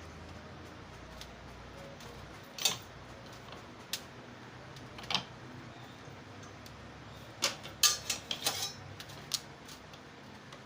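Small metal engine parts clinking and clicking as they are handled and set down, in scattered single knocks with a quick cluster of clinks about three-quarters of the way through.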